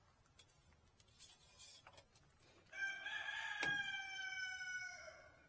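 A rooster crowing once: a single long cock-a-doodle-doo starting about halfway through, dropping slightly in pitch as it ends. A few light clicks around it.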